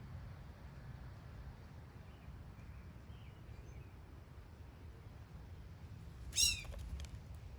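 Steady low outdoor background rumble with a few faint bird chirps, then one short, loud, harsh bird call about six seconds in.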